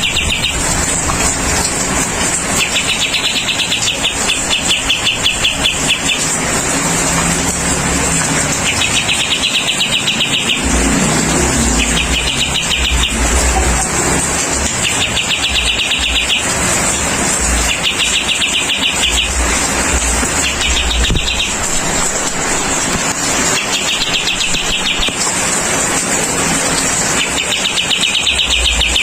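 Kapas tembak songbird giving repeated bouts of a fast, buzzy rattling song, about nine bursts of one to three seconds each. The bursts sound over a steady high hiss and patches of low rumble.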